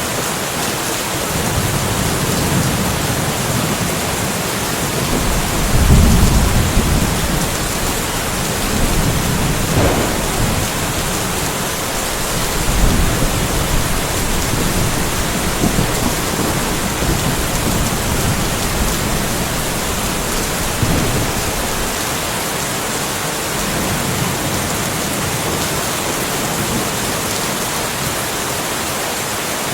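Steady rain falling in a light thunderstorm, with low rolls of thunder rising out of it every few seconds; the loudest roll comes about six seconds in.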